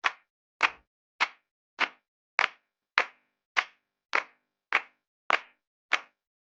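Sharp slap-like hits repeating at a very even pace, a little under two a second, each dying away quickly.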